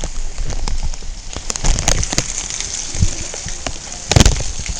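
Heavy tropical-storm rain falling steadily on surfaces, with a few sharp knocks; the loudest comes about four seconds in.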